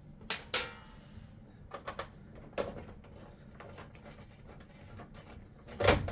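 Light clicks and taps of a screwdriver and small screws being worked loose from a washing machine's plastic control console, with a louder knock near the end.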